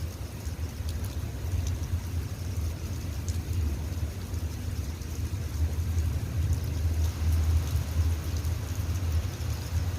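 Steady rain with scattered drops ticking, over a loud, steady low rumble.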